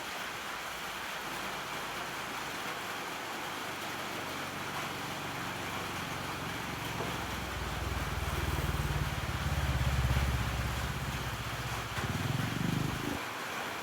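A low engine rumble over a steady hiss. It swells from about halfway through, peaks around ten seconds in, and cuts off suddenly near the end.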